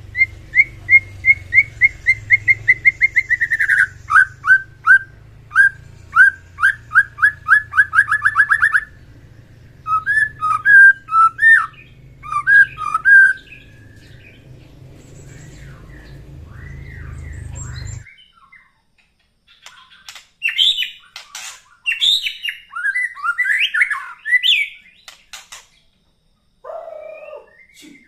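White-rumped shama singing: a fast run of repeated whistled notes, then varied whistled phrases. About 18 s in, a steady low hum drops out and a higher, more jumbled stretch of song begins.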